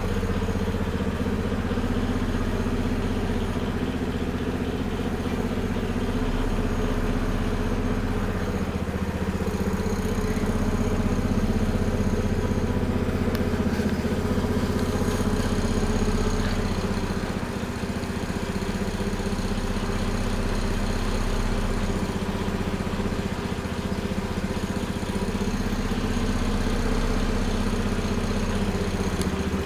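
An engine running steadily at idle, a low even hum with a constant pitch.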